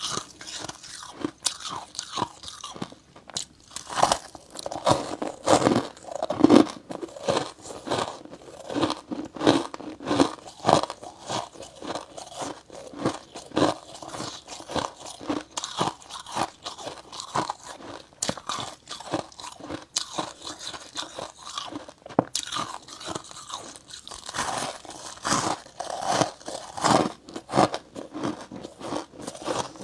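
Close-up crunching and chewing of slabs of freezer frost, many irregular crisp crunches a second, with louder bites now and then.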